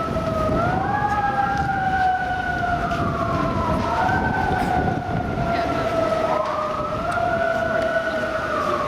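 Emergency vehicle siren wailing: its pitch rises quickly, then slides slowly down, about every three seconds, over a low rumble.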